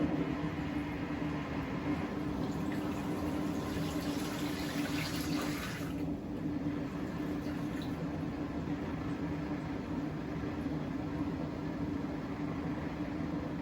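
Siemens WM14T490 washing machine taking in water: water rushes into the drum with a hiss that cuts off suddenly about six seconds in, over a steady low hum from the machine.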